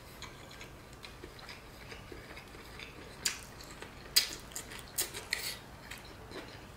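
Close-miked eating sounds: scattered wet mouth clicks and smacks of chewing, with a few louder ones in the middle stretch as more food goes into the mouth.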